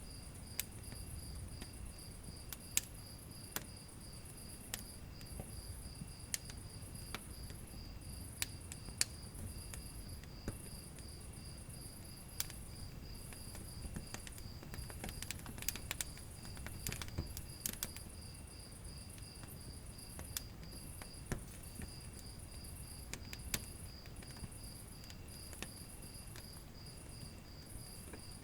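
Wood fire crackling, with scattered sharp pops over a low rumble. Crickets chirp steadily alongside it in a fast even pulse, about three or four a second, and a higher insect buzz comes and goes in stretches of a second or two.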